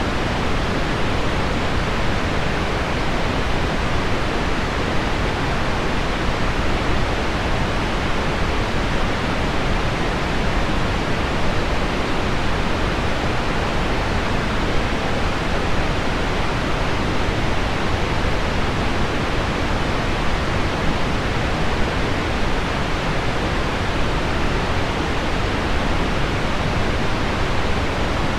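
Heavy rain on window glass blended with low pink noise, a steady, even hiss that does not change.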